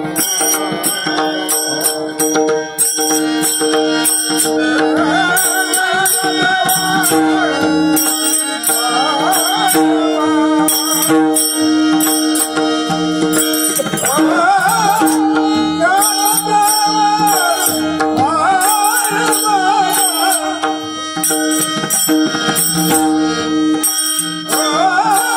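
An old man singing a Marathi devotional abhang in long, wavering held notes over a steady drone and a regular percussion beat.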